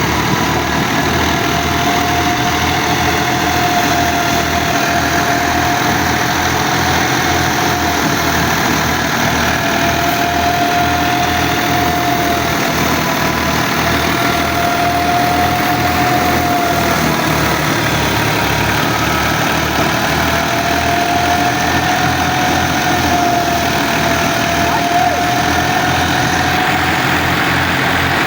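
Fiat 480 tractor's three-cylinder diesel engine running steadily under the load of a thresher, with a high whine over it that wavers slightly in pitch.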